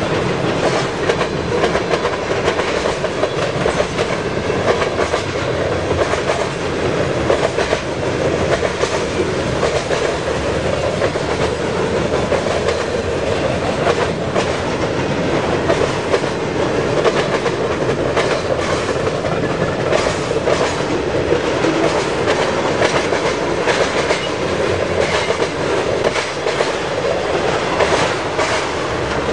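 Freight train cars rolling past at speed, a steady rumble of wheels on rail with frequent clicking as the wheels cross rail joints.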